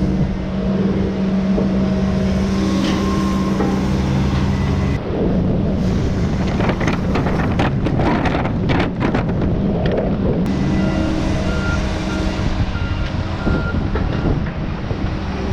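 Heavy machinery: an engine running steadily, then, after a cut about five seconds in, a noisier stretch of rapid knocks and cracks. From about ten seconds in an engine runs again, with a reversing beeper sounding about twice a second.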